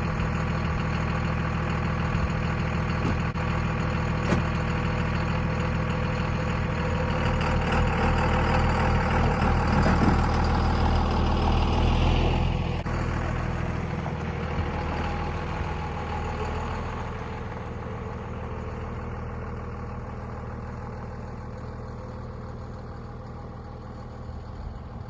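Pickup truck engine running as the truck drives off, building in level and pitch for several seconds, then dropping in pitch about twelve seconds in and easing off quieter afterwards.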